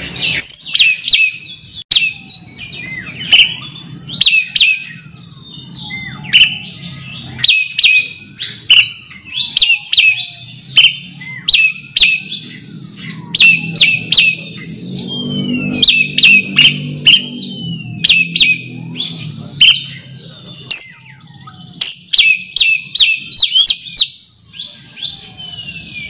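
Oriental magpie-robin singing a loud, fast run of sharp chirps and whistled notes in repeated phrases: its rival-challenging song, sung to call an opponent. A low rumble runs underneath, strongest around the middle.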